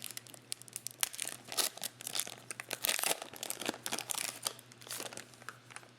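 Trading card pack wrapper being torn open and crinkled, a dense run of irregular crackles that dies away near the end.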